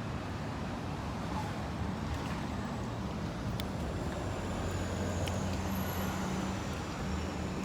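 Steady low rumble of motor traffic, with a low engine hum that swells a little after about five seconds.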